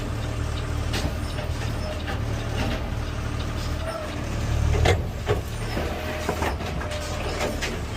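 CNG Peterbilt 520 garbage truck's engine running with a steady low rumble, with scattered clunks and knocks and a louder clatter about five seconds in.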